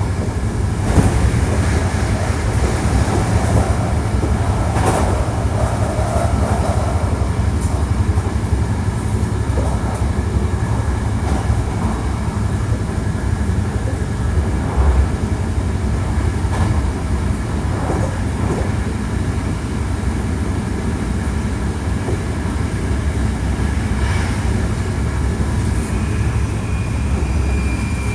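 Hankyu 1300 series electric train running steadily at speed, heard inside the car: a continuous wheel-on-rail rumble with a faint steady whine and scattered clicks from the rail joints.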